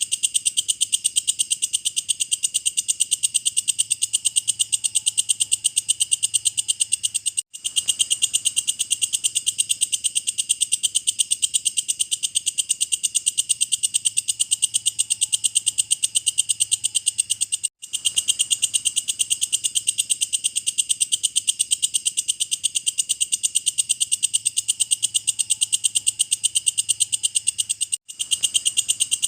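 Walang kecek bush cricket calling in a continuous, very fast high-pitched pulsing trill, broken by brief cut-offs three times, about every ten seconds.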